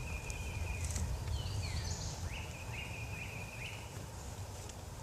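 Outdoor birdsong: a bird gives a string of short, level high whistles with quick rising starts and a looping swept call in the middle, over a steady low rumble.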